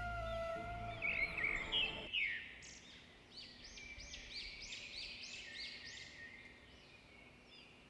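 Small bird chirping in a quick series of short, high arched notes, about two or three a second, faint. A held musical note dies away about two seconds in, before the chirping starts.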